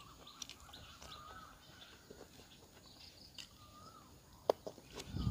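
Outdoor ambience: a bird repeats a short wavering whistle every second or two. Faint mouth clicks from eating come through, with one sharp crunch-like click near the end as a bite is taken.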